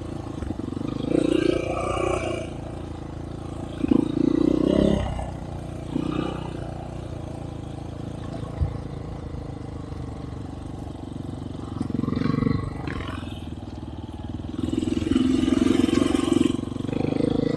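Enduro motorcycle engine running, swelling in short louder bursts several times over a steady lower drone.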